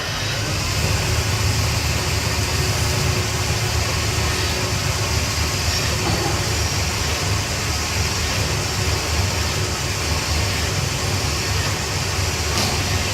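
CNC-600 tube barrel-forming machine running: a steady low hum with an even hiss over it, and a faint tick near the end.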